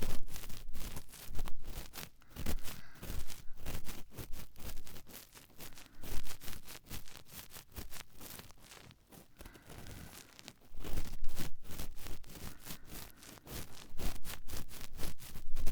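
A cotton swab rubbing and scratching in an ear close to the microphone, in irregular strokes that swell and fade, with a quieter stretch around the middle.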